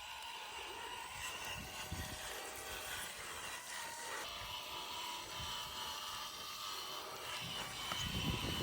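Small motor running steadily with a thin high whine, a few low knocks near the end.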